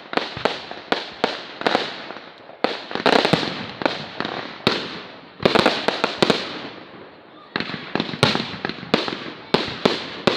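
Fireworks display: a fast, uneven string of sharp bangs and crackles, each with a short fading tail, with the heaviest volleys about three, five and a half, and eight seconds in.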